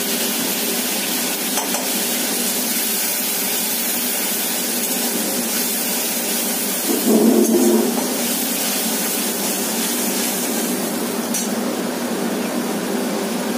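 Chopped tomatoes sizzling in hot mustard oil in a kadai: a steady frying hiss that grows briefly louder about seven seconds in.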